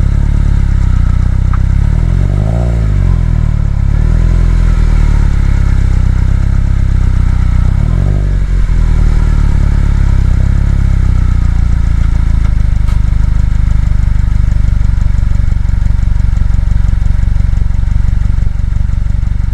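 2018 Subaru WRX STI's 2.0-litre turbocharged flat-four running at low revs, its pitch dipping and rising twice in the first nine seconds or so, then settling into a steady low drone.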